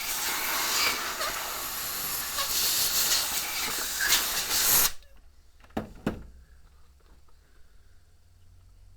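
Loud steady hiss of silicone sealant being dispensed around the seam of a washing machine tub, stopping abruptly about five seconds in, followed by two sharp clicks.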